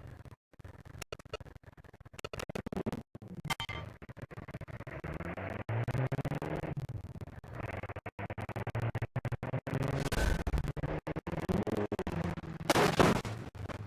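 Off-road vehicle engine running and revving up and down under load. The recording crackles with many brief dropouts. A loud rush of noise comes near the end.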